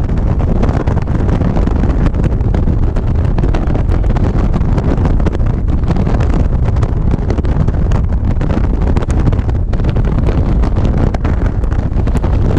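Loud, steady wind buffeting the microphone on a moving motorcycle, mixed with the bike's running and road noise.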